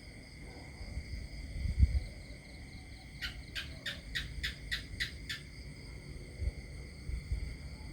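Countryside ambience: a bird gives a quick series of about eight sharp notes, roughly four a second, in the middle, over a steady high-pitched insect chorus. Low thumps come and go underneath, the loudest about two seconds in.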